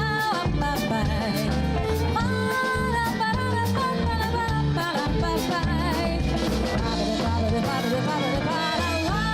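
Band music: a drum kit keeping a steady beat over a bass line, with a sustained melody line on top.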